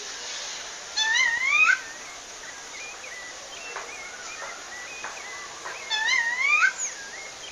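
Female rufous-bellied thrush (sabiá-laranjeira) calling: two loud rising calls about five seconds apart, with softer short chirps between them, over a steady background hiss.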